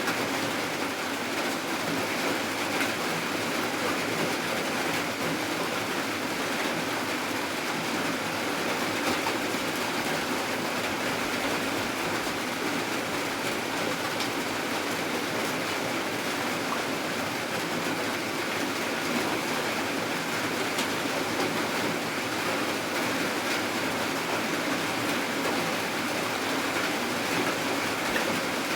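Steady rain falling, an even hiss with fine drop hits throughout and no change in intensity.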